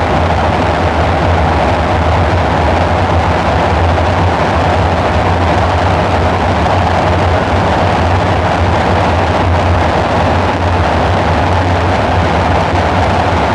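Dark ambient synthesizer drone: a steady low hum with a noisy mid-range band and hiss over it, unchanging throughout.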